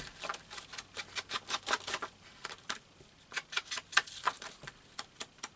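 Quick, irregular light taps and clicks, several a second: ink being dabbed along the white edges of cut paper on a collage page.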